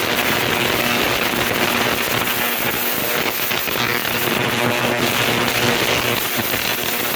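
Ultrasonic cleaner running a cleaning cycle on a carburetor: a steady electrical buzz over a dense hiss from the cleaning bath.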